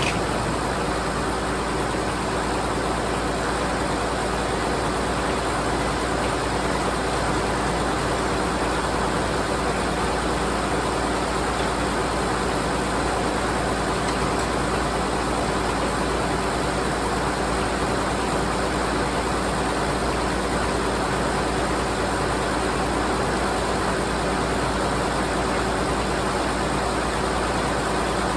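Belt-driven Frick No. 00 sawmill and its drive engine running, a steady mechanical noise that holds even throughout, without rising or falling.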